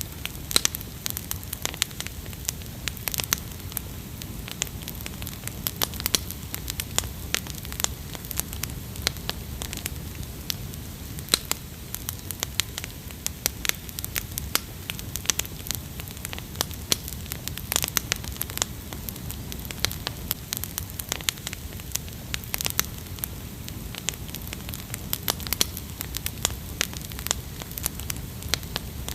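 Wood campfire crackling, with frequent irregular sharp pops and snaps over a steady low rumble of flame.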